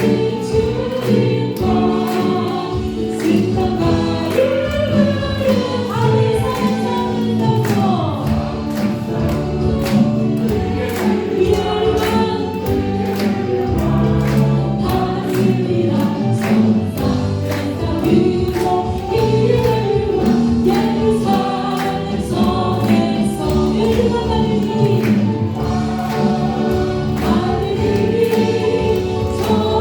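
Worship team and congregation singing a Korean praise song in chorus, with band accompaniment and a steady drum beat.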